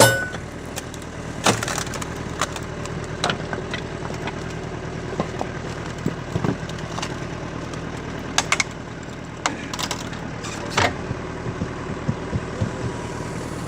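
A log cracking and splintering as it is pushed through the six-way star knife of a tractor-driven hydraulic log splitter, with sharp cracks every second or few. Underneath is the steady running of the Massey Ferguson 35 tractor engine that drives the splitter's hydraulics. The splitting is slow because the tractor gives only about 10 litres a minute of oil flow.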